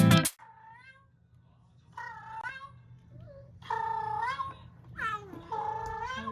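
Cat meowing, a series of about five short calls that bend up and down in pitch, the louder ones in the second half.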